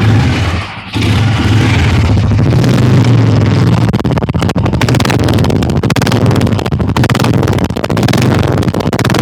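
Royal Enfield Bullet 350's old cast-iron single-cylinder engine running, its exhaust beating in a steady, even rhythm, with a brief drop in level about a second in.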